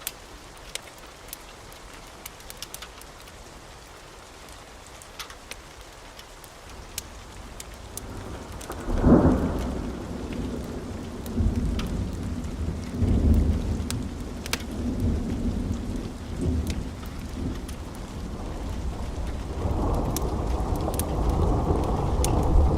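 Steady rain with a sudden loud thunderclap about nine seconds in, followed by low rolling thunder that rumbles on and builds again near the end. Scattered sharp crackles from a wood fire sound throughout.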